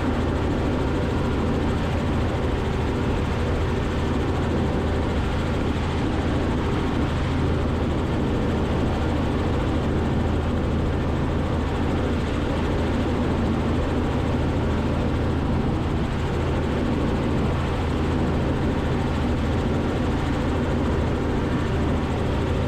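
Robinson R44 helicopter in cruise flight: its piston engine and rotor run with a steady drone, heard through the intercom feed.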